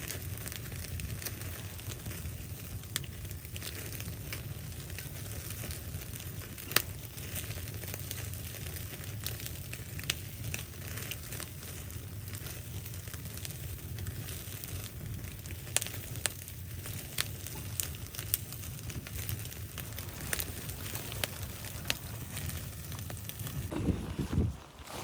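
Wood fire crackling: scattered sharp pops and snaps over a steady low rumble. A louder rushing noise comes in near the end.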